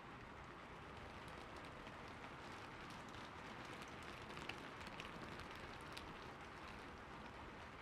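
Soft, steady rain falling, with a few separate drops ticking a little louder about halfway through.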